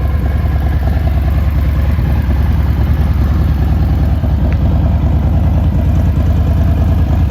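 Harley-Davidson Breakout 114's Milwaukee-Eight 114 V-twin engine idling steadily with a fast, even lumpy pulse.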